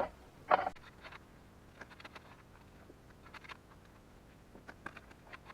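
A shovel scraping once into soil, followed by scattered light ticks and patter of loose dirt and small stones.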